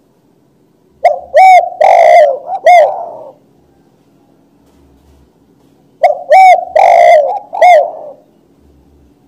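Spotted dove (tekukur) cooing loudly and close: two phrases of four or five coos each, about five seconds apart.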